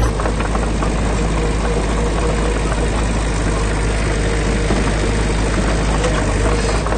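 Heavy diesel engine of construction machinery running steadily: a loud, even, low drone with a faint thin whine over it.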